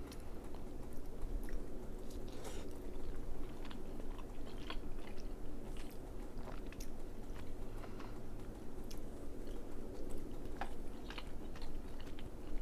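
A person chewing king crab meat close to the microphone, with irregular wet mouth clicks and smacks.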